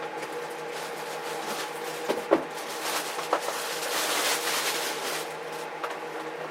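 Small 15 cm household ventilation fan running with a steady motor hum and airflow whoosh. A few sharp clicks or knocks come about two to three seconds in.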